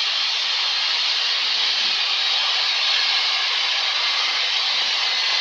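Steady rushing cabin noise of a Cessna 172 on final approach, engine at low power and airflow over the airframe, even and unchanging with no lower rumble.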